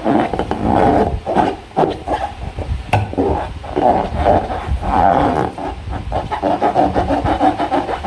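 Hands squeezing and rubbing slime and rubber balloons: a continuous squeaky rubbing and squelching, with scattered sharp clicks.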